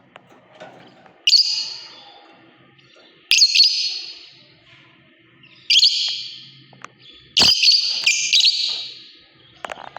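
Lovebird calling: four loud, shrill calls about two seconds apart, each starting sharply and trailing off over about a second, the last one doubled.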